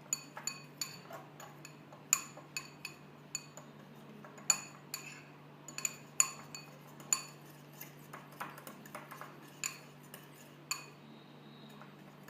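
A fork clinking against a mixing bowl while stirring batter: irregular sharp clinks, a few a second, some ringing briefly, with a quieter stretch near the end.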